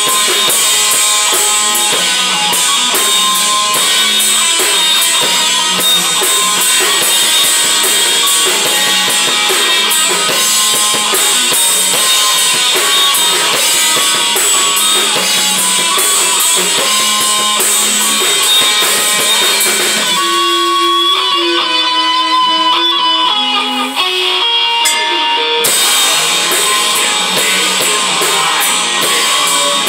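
Rock band playing with strummed electric guitar and a drum kit. About twenty seconds in, the drums drop out for roughly five seconds, leaving a few sparse guitar notes, then the full band comes back in.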